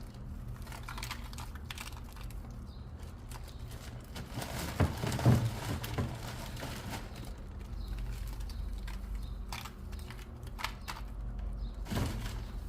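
Scattered light clicks and taps, like objects being handled, with a louder cluster about five seconds in, over a steady low hum.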